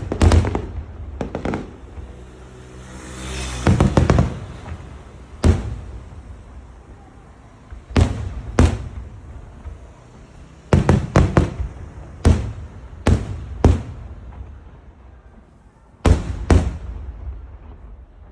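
Aerial fireworks shells bursting: a run of sharp booms at irregular intervals, several in quick pairs and clusters, with a swelling crackling hiss just before a cluster of bursts about four seconds in.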